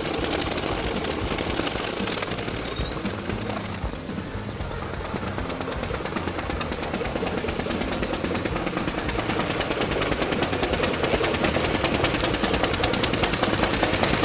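Replica Ford Quadricycle's small two-cylinder engine running under way, a fast, even stream of sharp exhaust pops. It grows louder as the car comes closer, over a crunch of gravel.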